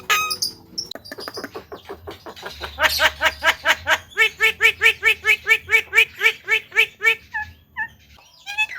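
Javan myna calling: a fast run of quick repeated chattering notes, about seven a second, that breaks into a few scattered calls near the end.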